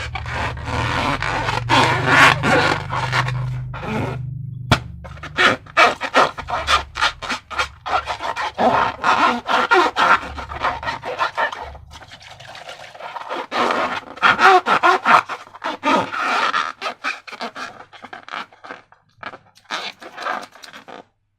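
Sticky wet slime being squished and mixed, a dense run of small wet clicks and pops, with a low hum underneath for the first several seconds.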